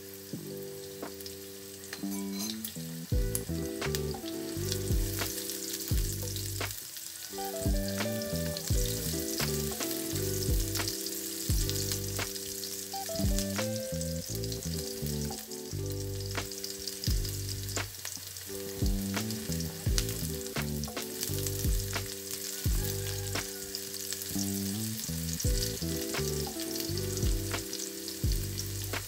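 Sliced shallots frying in hot oil in a nonstick wok: a steady sizzle, with scattered clicks as they are stirred.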